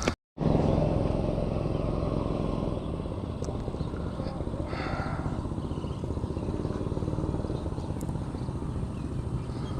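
A motor engine running steadily, with a brief higher-pitched sound about five seconds in.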